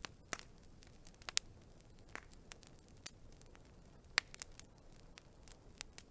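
Wood fire crackling: irregular sharp pops and snaps over a soft steady hiss, the loudest snap about four seconds in.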